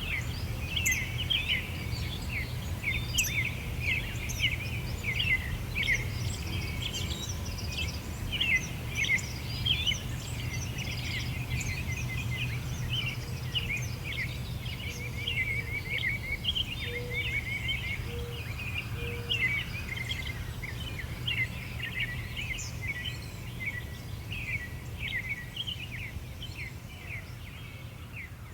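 Several small birds chirping and singing continuously, over a steady low background rumble. A few short, low notes sound about two-thirds of the way through.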